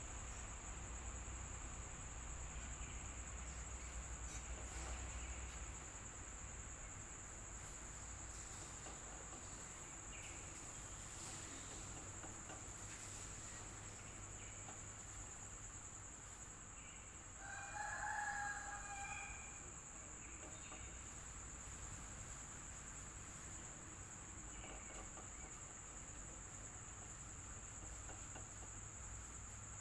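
Electric fan running with a steady low hum and a constant high thin whine. A rooster crows once, for about two seconds, roughly seventeen seconds in.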